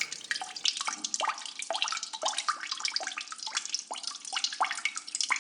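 Water trickling and dripping, with many small irregular plinks of drops over a steady splashy trickle.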